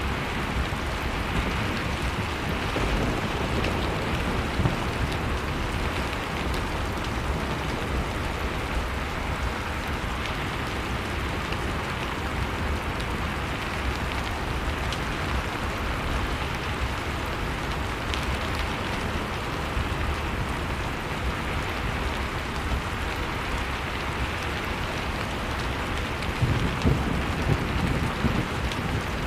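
Steady crackling of a wood fire over a continuous rushing of storm wind, with a low rumbling swell near the end.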